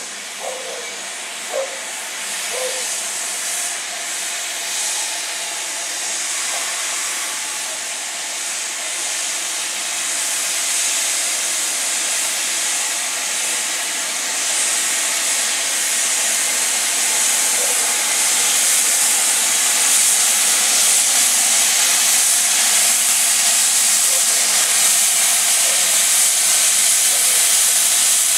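Stanier 8F 2-8-0 steam locomotive 45160 letting off steam: a steady hiss that grows gradually louder.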